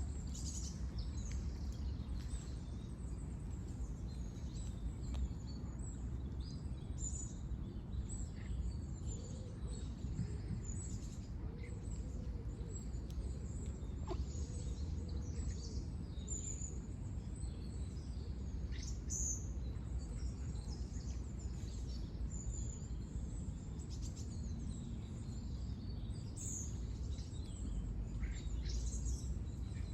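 Many small birds chirping and calling in short, scattered notes, over a steady low background rumble.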